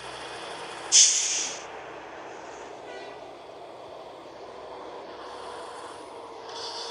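A sharp, loud hiss of released air about a second in, fading quickly, with a fainter hiss near the end, typical of a heavy truck's air brakes, over a steady vehicle rumble.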